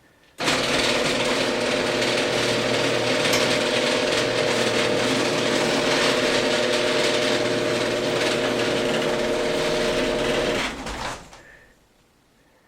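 Old Genie screw-drive garage door opener running for about ten seconds, a steady motor hum with the rattle of the screw drive and carriage, then shutting off near the end. The owner suspects a worn carriage gear or a worn section of the screw.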